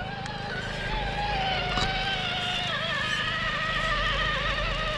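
Electric motors and gear drivetrains of Traxxas TRX-4 RC trucks whining under throttle, the pitch wavering as the drivers work the throttle. About halfway through, a second, higher whine joins in.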